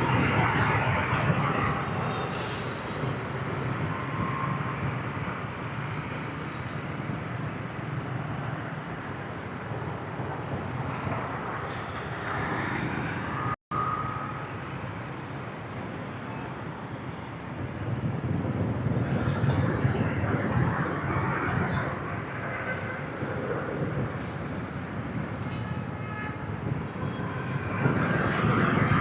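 Motorbike traffic heard from a moving motorbike: many small engines running with road and wind noise, rising and falling. The sound drops out for an instant about halfway through.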